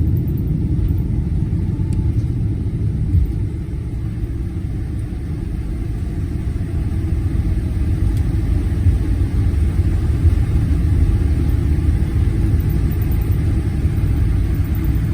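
Steady low rumble inside the cabin of a Boeing 777-200ER during arrival, easing slightly a few seconds in and then building again.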